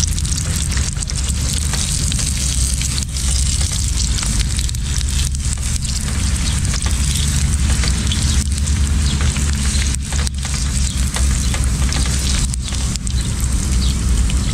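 Strips of mullet fillet frying in hot oil in a pan on a camping stove: a continuous crackling sizzle. A steady low rumble runs underneath.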